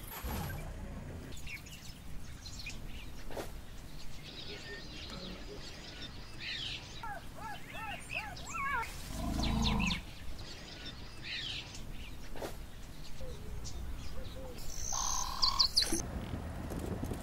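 Birds chirping and calling in a run of short rising and falling notes, with a brief low rumble about nine seconds in.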